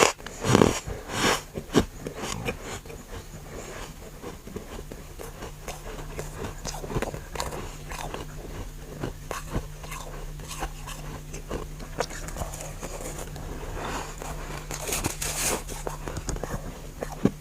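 Close-up biting and chewing of freezer frost and ice: a few loud crunching bites in the first two seconds, then a run of smaller crisp crunches as the mouthful is chewed, with a brief burst of crackly crunching near the end. A faint steady hum sits underneath.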